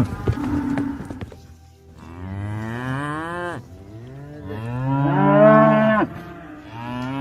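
Cattle mooing: a short low call near the start, then three long moos, each rising in pitch, the loudest about five seconds in.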